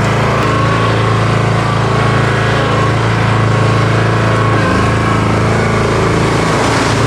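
An engine running steadily at a constant speed, with a slight change in its note about five seconds in.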